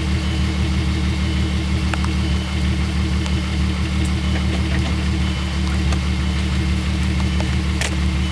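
Volkswagen GTI's 24-valve VR6 six-cylinder engine idling steadily, heard at its twin exhaust tips.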